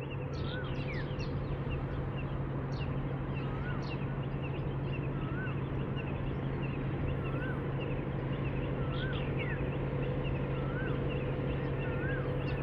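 Birds calling over a steady low hum: a short rising-and-falling chirp repeats about once a second, with a few higher whistles sliding down in pitch.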